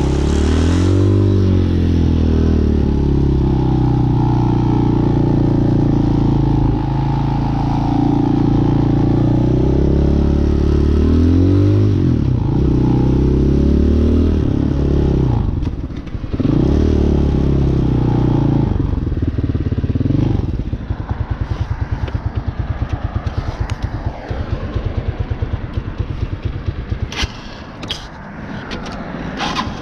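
Hawk 250cc motorcycle's single-cylinder engine under way, its pitch rising and falling as it accelerates and eases off, with a brief drop about sixteen seconds in. About twenty seconds in it settles to a slower, even chugging, and a few sharp clicks come near the end.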